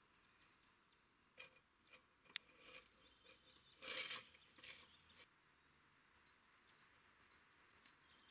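Faint songbird chirping, short high calls repeating again and again. A sharp click comes about two and a half seconds in, and a brief burst of noise about four seconds in.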